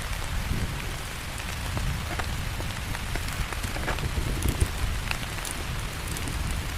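Heavy rain falling steadily, with many separate drops ticking sharply through the steady hiss.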